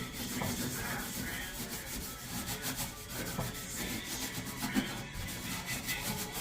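Continuous rubbing and scraping from hands-on work at a kitchen sink during a faucet replacement, with a few small knocks.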